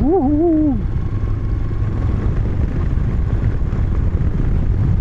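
Moto Guzzi motorcycle engine running at a steady cruise, a constant low rumble mixed with wind and road noise on the rider's microphone.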